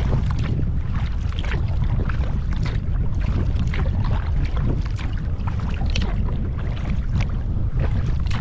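Strong wind buffeting the microphone in a steady low rumble, over irregular splashing and slapping of choppy river water against a kayak being paddled.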